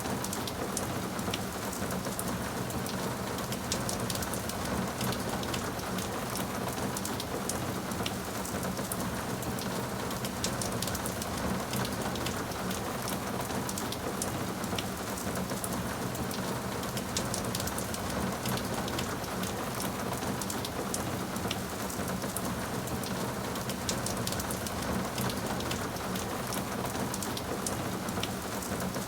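Steady rain falling: an even hiss with many sharp individual drop ticks throughout.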